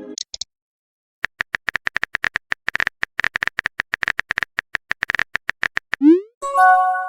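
Rapid typing clicks, as of a phone keyboard, rattling on for about four seconds. Near the end comes a quick rising pop and a short synthetic chime, the message-sent and message-tone effects of a texting animation.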